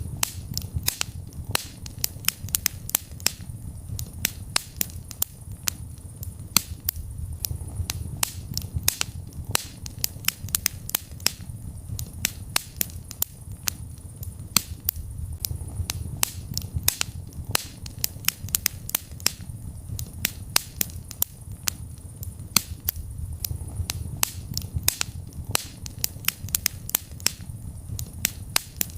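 Wood fire burning in a fireplace: constant sharp crackles and pops, several a second, over a low steady rumble of the flames.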